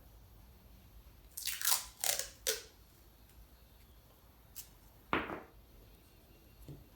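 Hands working a wiring harness to label a wire: three or four short crackling rustles close together, then a small tick and one more rustle a few seconds later.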